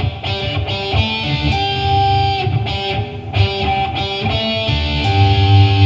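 Electric guitar playing the verse lead melody as single held notes, one after another, moving up and down the neck on the 2nd to 4th strings.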